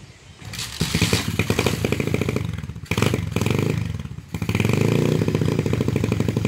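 Apollo DB007 125cc single-cylinder four-stroke dirt bike engine kick-started, catching on the first kick about half a second in, then running fast and rough on choke; it sags twice before settling into a steady idle, which the owner takes as a sign the idle screw needs adjusting.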